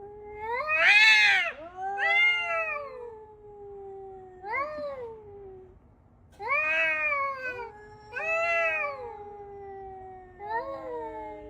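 A cat meowing repeatedly: about six long, drawn-out meows, each rising and then slowly falling in pitch, the loudest about a second in.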